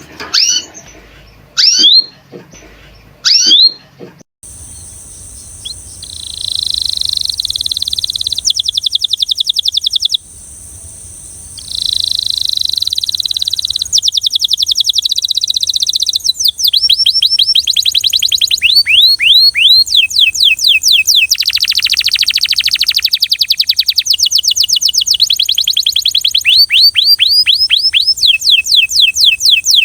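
Belgian canary singing: three short rising calls at the start, then a continuous song of rolling trills and fast runs of repeated, downward-sweeping notes.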